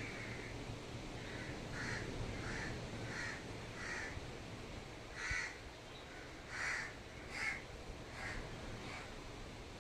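A bird calling again and again in short separate calls, about a dozen of them, with uneven gaps between.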